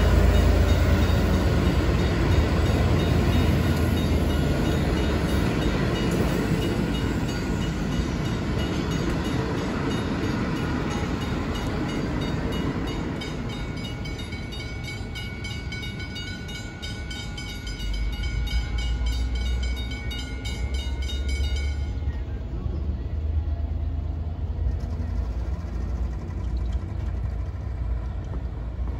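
V/Line passenger carriages rumbling over the rails as they pass, fading away, while the crossing's McKenzie-Holland mechanical teardrop bell rings with rapid, even strokes. The bell cuts off suddenly about two-thirds of the way through as the crossing clears, and a car drives over the crossing near the end.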